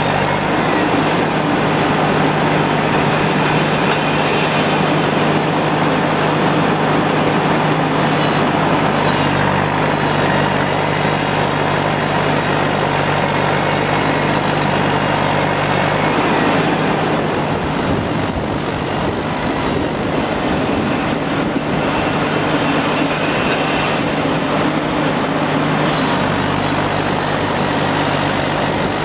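Truck-mounted mobile circular sawmill running, a loud steady machine drone with a constant low hum. About seventeen seconds in the low hum drops away for a few seconds before coming back.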